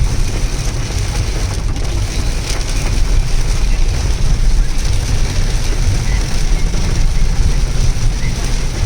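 Maruti Dzire driving in monsoon rain: a steady low rumble of tyres on wet road under an even hiss of rain and spray, with a few faint clicks.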